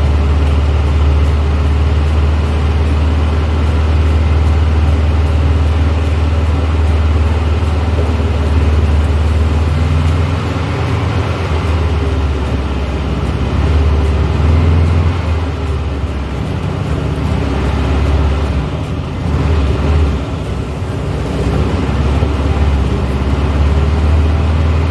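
A 1970s Volkswagen's air-cooled engine running while driving, a steady low drone with road noise that dips and swells a few times.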